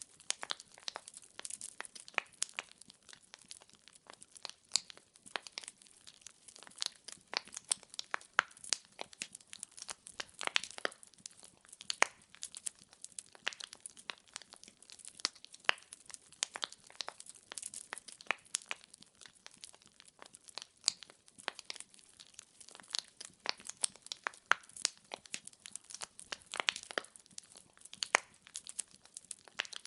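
Burning firewood crackling and popping: quick, irregular sharp clicks, several a second, with now and then a louder snap.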